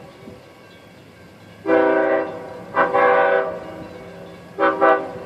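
Long Island Rail Road diesel train's multi-tone air horn sounding two long blasts followed by a short one near the end, over a low steady rumble from the train.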